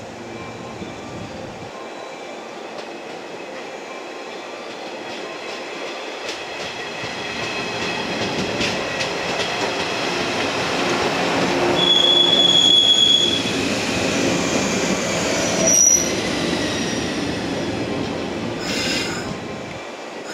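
Yellow 115-series electric train running past along the platform track, its rumble and rail clatter growing louder as it nears and easing off toward the end. A brief high squeal from the wheels about twelve seconds in and a sharp click a few seconds later.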